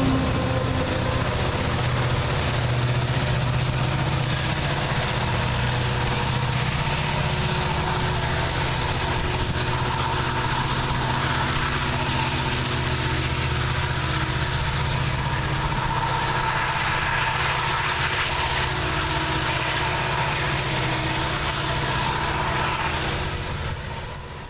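Freight train passing, a steady rumble of cars rolling on the rails with steady low tones and a faint ringing tone above them. It fades away near the end.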